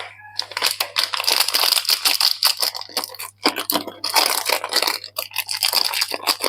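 Soap packaging being crinkled and torn open by hand as the soap is unwrapped: a dense run of crackles, with a brief pause about three and a half seconds in.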